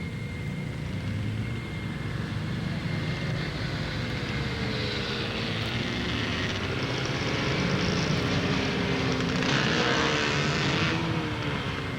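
Motorcycle engines running and revving, their pitch rising and falling, over a steady engine drone. One bike grows louder from about five seconds in and is loudest around ten seconds in, then fades as it passes.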